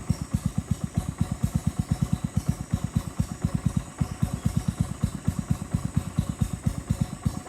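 Boat engine running steadily with an even, low, rapid pulsing of about eight beats a second.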